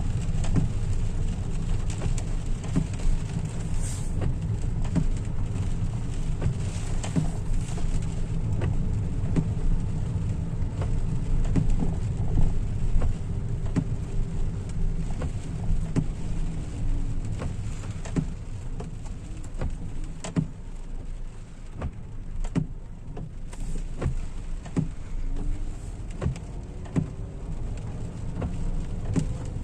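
Car driving in rain, heard from inside the cabin: a steady low road and engine rumble with scattered raindrops ticking on the body and glass.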